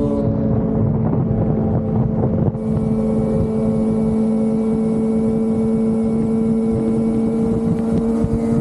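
Inline-four sport motorcycle engine holding steady high revs at cruising speed, its pitch almost unchanging, with wind rushing over the microphone.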